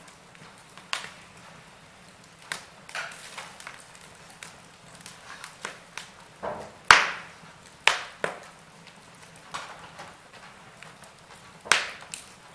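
Wood fire crackling in a fireplace: a soft hiss with irregular sharp pops and snaps from the burning wood, the loudest pop about seven seconds in.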